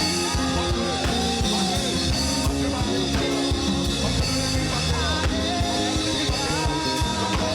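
Live church band playing a worship song: drum kit keeping a steady beat under pitched instruments, with voices singing.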